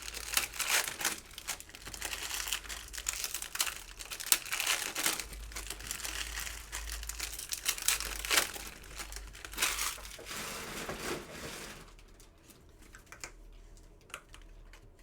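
Foil wrappers of Mosaic football card packs crinkling and tearing as the packs are opened, dense crackling for about twelve seconds, then only a few faint clicks.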